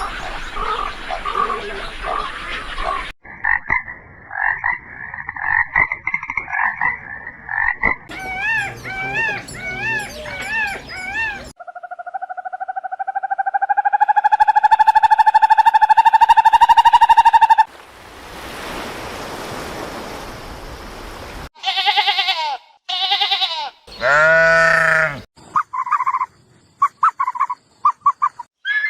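A string of different animal calls, one after another, changing every few seconds. They include pitched, wavering calls, one long call that rises in pitch, a spell of hissing noise, and short repeated calls near the end.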